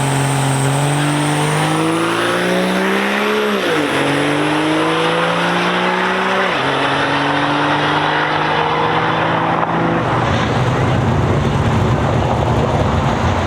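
Vehicle engine accelerating hard down a drag strip, its pitch climbing through the gears with sharp drops at two upshifts, about 3.5 and 6.5 seconds in. About 10 seconds in the engine note gives way to a loud rushing noise.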